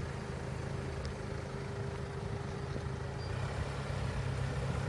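Car engine idling steadily: a low, even hum with a faint steady whine above it.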